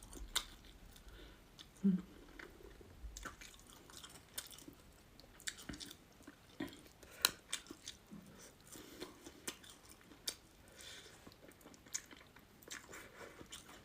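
A person chewing and biting crispy fried hairtail fish, with irregular crunching clicks throughout. The sound is faint, picked up without a clip-on mic.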